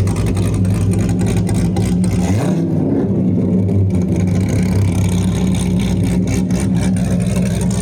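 Twin-turbo Ferrari F12 V12 engine running loud under throttle, with its pitch shifting upward about two and a half seconds in.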